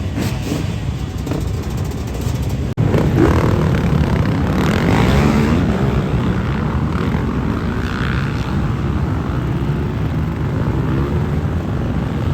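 A motor engine running with a dense, rumbling noise, cutting off for an instant about three seconds in and coming back louder.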